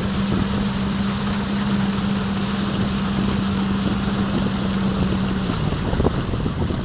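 Jet ski engine running at a steady pitch over a constant rush of noise. The pitch drops about five and a half seconds in as the throttle is eased off.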